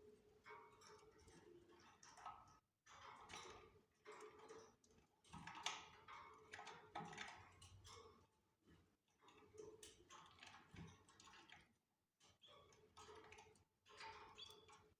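Caged canaries making faint, irregular chirps and clicks, a few short calls a second with brief pauses between.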